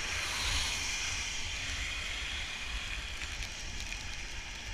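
Steady rushing noise of a bicycle ride in heavy rain: wind buffeting the microphone with a low rumble, under an even hiss of rain and wet road.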